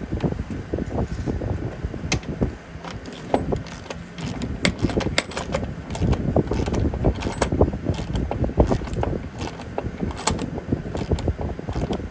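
Irregular metallic knocks and clinks, some in quick clusters, over a steady low rumble.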